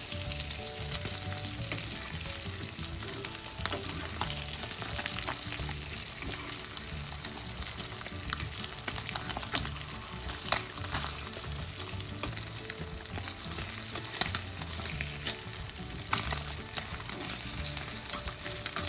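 Slices of Spam frying in a little oil in a pan: a steady sizzle with scattered pops and crackles.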